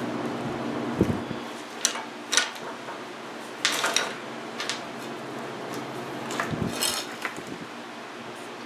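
Handling noise of tools and parts on a workbench: a dull knock about a second in, then scattered light clicks, clinks and short rattles.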